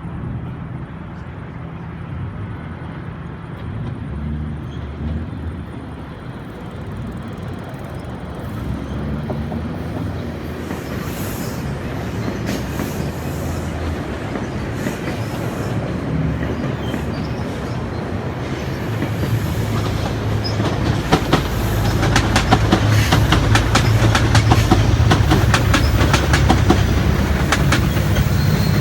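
A passenger train passing on the tracks below: a low rumble that builds steadily, then from about two-thirds of the way in the rapid clickety-clack of wheels over rail joints and louder rumbling as the cars go by.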